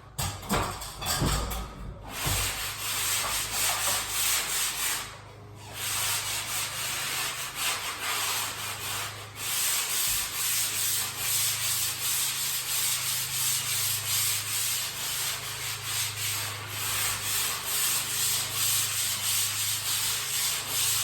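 Hand sanding block rubbed back and forth over dried joint compound on a drywall patch: a steady run of scratchy sanding strokes, pausing briefly about five seconds in, with a few knocks in the first couple of seconds.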